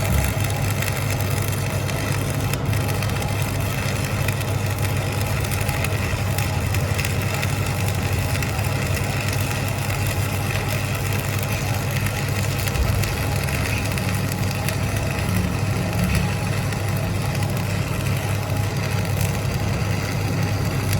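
Workshop machinery running steadily: a low hum under a constant rough noise, with no pauses.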